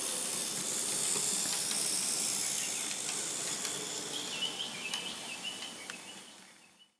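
Model train rolling along the layout's track: a steady high hiss with scattered light clicks and, from about four seconds in, a thin squeal, all fading out at the end.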